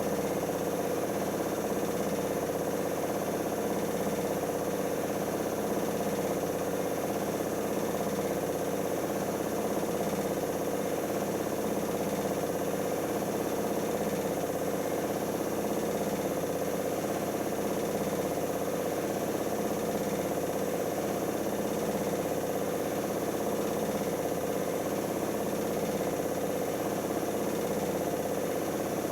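Siemens iQ WIQ1430 washing machine running its spin stage after the first rinse: a steady motor-and-drum hum with a regular pulsing throb.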